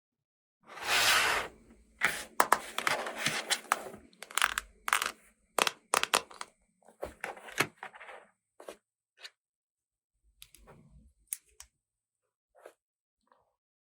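Toy packaging being opened by hand: a tear about a second in, then a run of crinkling rustles and sharp clicks of plastic pieces, thinning out to a few isolated clicks.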